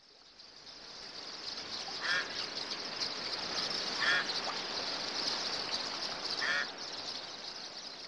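Bird calls: four short calls about two seconds apart, over a steady high-pitched hiss that fades in over the first second.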